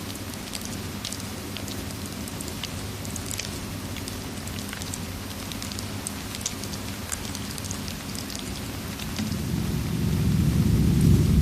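Steady rain mixed with a crackling fireplace, its small sharp pops scattered throughout. Near the end a low rumble of thunder builds and grows louder.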